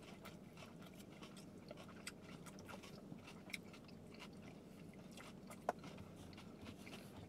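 Faint close-up eating sounds from shrimp tacos: biting and chewing with small wet clicks and light crunching, one sharper click about two-thirds of the way through, over a low steady hum.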